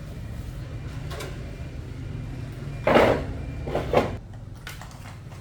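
Two brief clunks of objects being handled, the louder about three seconds in and a second about a second later, over a steady low hum.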